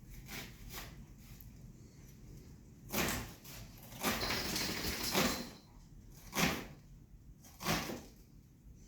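Kitchen handling sounds while cooking: a string of separate knocks and clatters of cookware and utensils, several seconds apart, with a longer noisy stretch about four seconds in.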